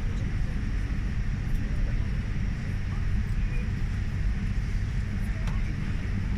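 Steady low rumble inside a Boeing 787 Dreamliner's passenger cabin, with faint passenger chatter.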